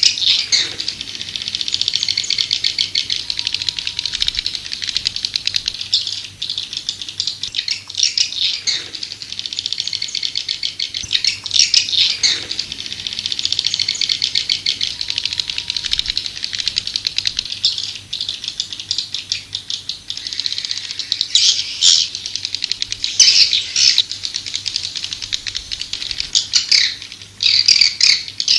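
Swiftlets chattering: a dense, fast rattle of chirps, with louder bursts every few seconds. It is the kind of swiftlet call recording played to draw swiftlets into a nesting house.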